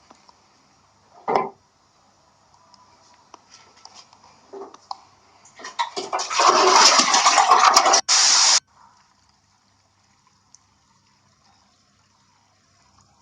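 Rushing water: a short rush about a second in, then a loud, noisy rush of about three seconds that cuts off abruptly.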